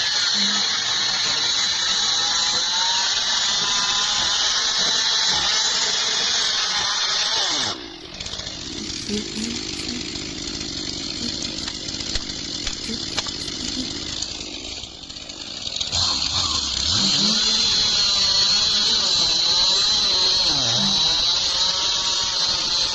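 Stihl MS 362 two-stroke chainsaw cutting into a tree trunk at high revs, its pitch wavering under load. About eight seconds in it drops to a quieter, lower sound, and from about sixteen seconds it is back at full revs.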